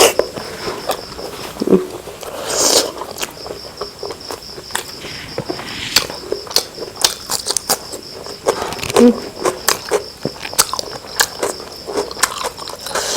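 Close-miked eating sounds of chicken biryani and curry being chewed: wet mouth smacks and an irregular run of sharp clicks and crackles.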